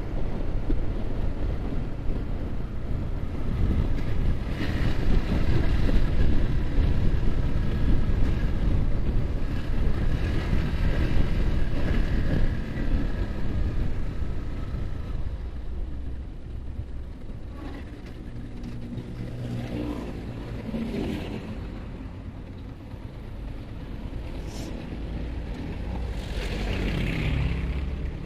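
Yamaha R15 single-cylinder motorcycle engine running on the move under heavy wind rush over the microphone. About halfway through the wind noise drops, and the engine note rises and falls in pitch.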